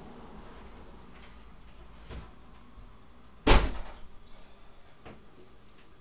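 A door slams shut about three and a half seconds in, after a lighter knock about two seconds in, with a faint low rumble underneath.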